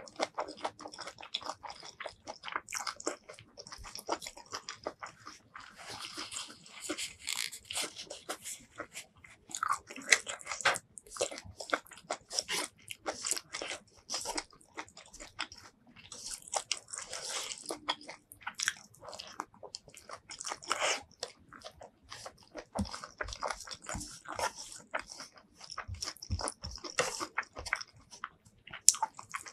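Close-miked eating: chewing and crunching mouthfuls of rice with fried roselle leaves and bamboo shoots in dense, irregular crackles, along with the wet squish of fingers mixing sauce-soaked rice.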